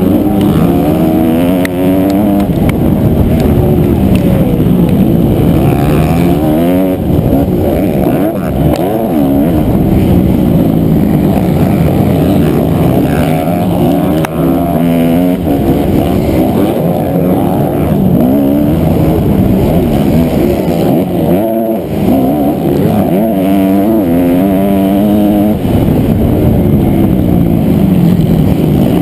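Honda CRF250R four-stroke single-cylinder motocross engine heard from the bike, revving up and dropping back over and over as it is ridden hard around the track, with short dips in throttle a few times. The sound is loud and muffled, mostly low and mid tones.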